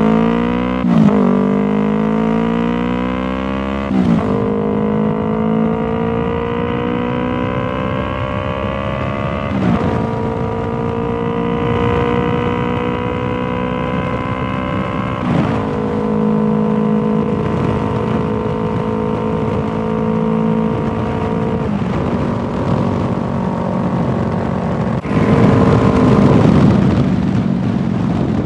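2019 Yamaha R3's parallel-twin engine through a Toce full exhaust with the dB killer fitted, pulling up through the gears: the pitch climbs and drops sharply at each upshift, four times in the first fifteen seconds or so, then holds a fairly steady pitch. A rush of noise joins in near the end.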